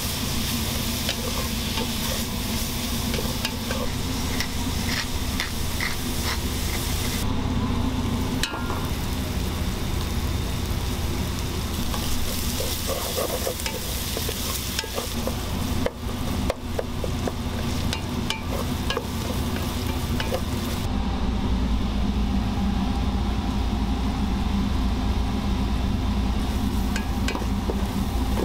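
Diced bacon and onions sizzling in butter in a metal pot while a wooden spatula stirs them, with frequent short clicks and knocks of the spatula against the pot. A steady low hum runs underneath.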